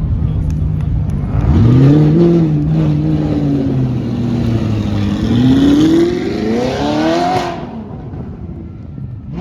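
Car engine revving hard: the pitch jumps up about a second and a half in, sags slowly, then climbs steadily and cuts off sharply near the end.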